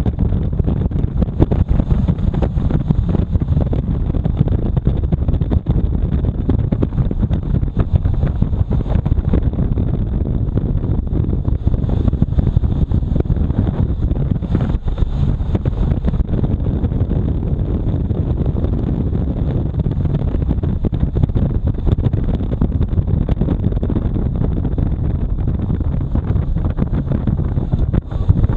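Wind buffeting the microphone on a moving motorcycle, a steady low rumble with road and engine noise under it.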